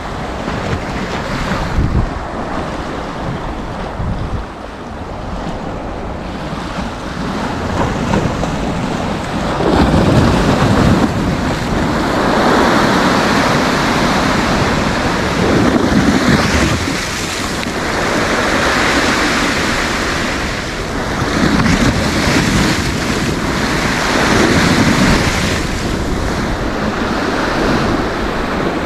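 Sea waves breaking and washing up the shore in repeated surges, growing louder about ten seconds in, with wind buffeting the microphone.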